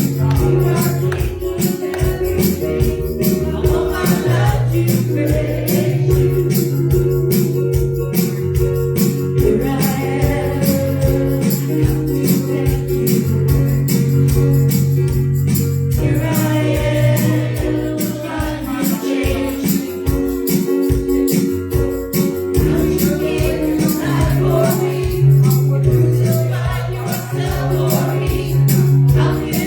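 Live gospel worship music with a steady beat, a shaken tambourine and singing.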